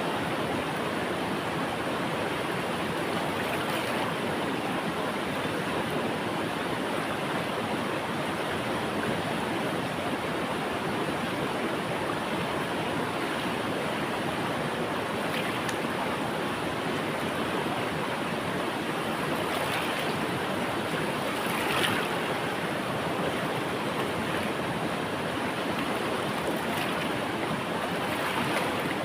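River water flowing over rocks in a steady rushing wash, with a few brief splashes, the clearest about two-thirds of the way through.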